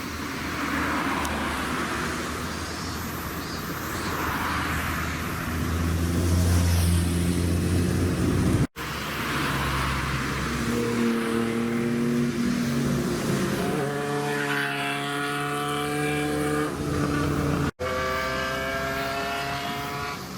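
Modified cars' engines running and revving, in three short segments split by abrupt cuts; in the last few seconds an engine accelerates, its pitch rising.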